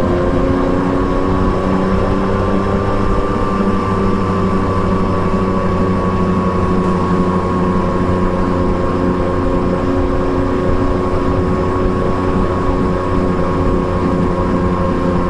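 Triumph Trident 660's inline three-cylinder engine running under steady load through an Akrapovic exhaust, heard from the bike at cruising speed. The engine note rises slightly in the first few seconds, then holds nearly even.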